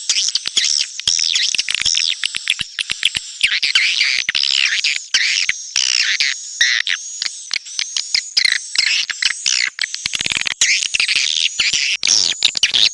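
Swiftlets twittering: a dense, unbroken chatter of many overlapping high chirps.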